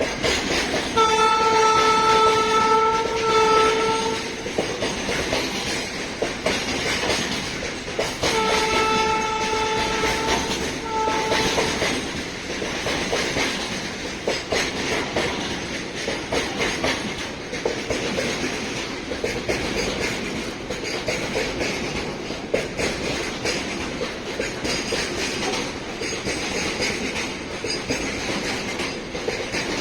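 Indian Railways electric freight locomotive sounding its chord horn: a long blast about a second in, then another long blast and a short one around eight to twelve seconds. After that the freight wagons' wheels clatter steadily over the rail joints as the train passes.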